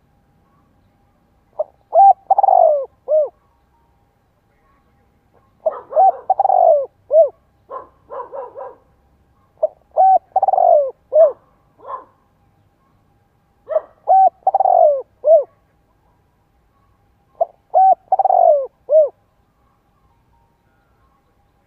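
Spotted dove cooing, repeating its several-note coo phrase five times, about every four seconds, with a run of short clipped notes between the second and third phrases.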